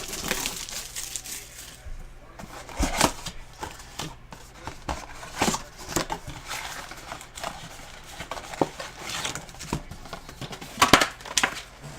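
Sports-card blaster box and its card packs being handled and torn open: scattered crinkling of pack wrappers and rips of cardboard and foil, with a few louder crackles, over a faint low hum.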